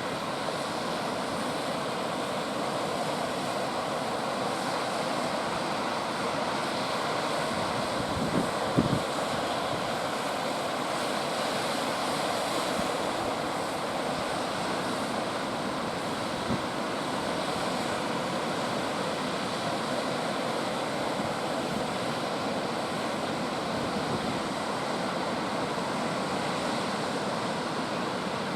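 Ocean surf breaking and washing in as a steady rushing noise, with a couple of brief thumps about nine seconds in and one near the middle.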